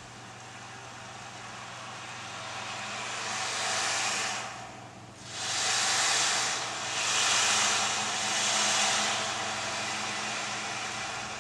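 Rushing, hiss-like noise that swells up, breaks off briefly about halfway through, then returns in about three surges before fading back, over a steady low hum.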